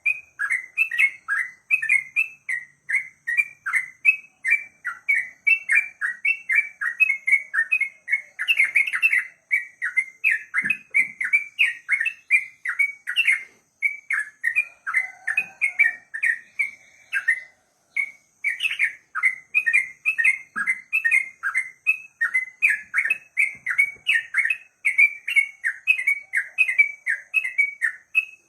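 Yellow-vented bulbul (trucukan) singing a long, fast 'ropel' run of repeated chirping notes, about three a second, with two brief breaks partway through.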